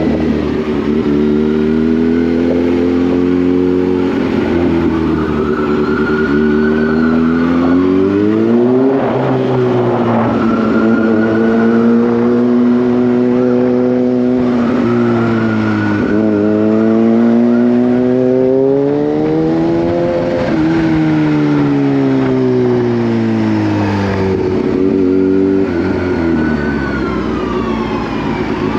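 Kawasaki Z H2's supercharged inline-four engine running under way, its revs rising and falling several times as the bike accelerates and eases off. A higher whine follows the revs up and down.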